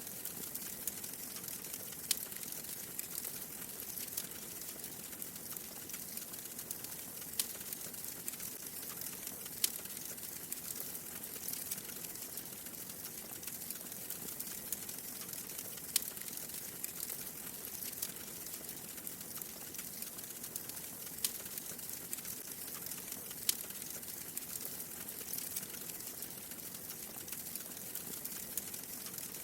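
Wood fire crackling: a steady hiss with frequent small snaps and occasional louder pops.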